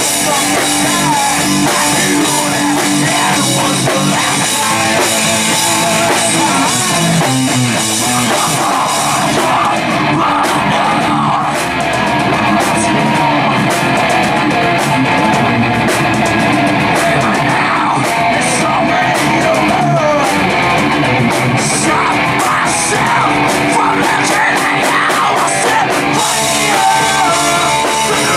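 Live heavy rock band playing loudly: distorted electric guitars over a drum kit, with a melody line coming forward about a third of the way in.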